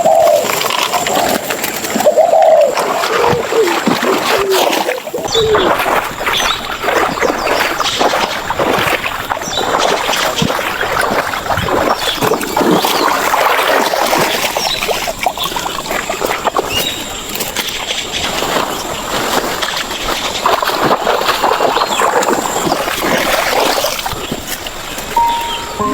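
Water splashing and sloshing, with irregular clatter throughout.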